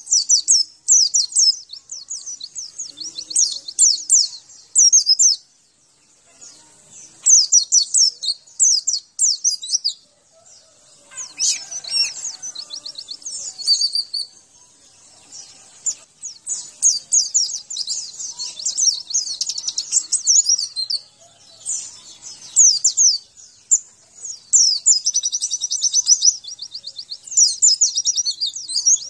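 White-eye (pleci) singing: bursts of rapid, high chirping and twittering phrases with short pauses between them, and a fast, even trill near the end.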